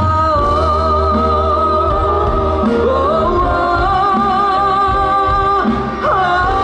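Live concert music with singing: a melody held in long, wavering notes over a steady bass line.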